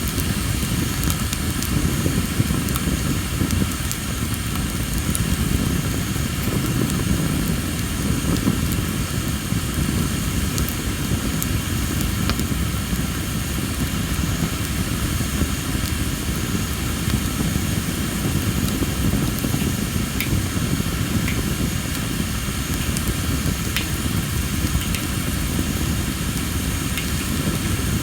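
Wood campfire of Ailanthus (tree of heaven) logs burning with a steady low rumble of flame and a few scattered sharp pops and crackles from the moist wood. A steady high chorus of insects runs underneath.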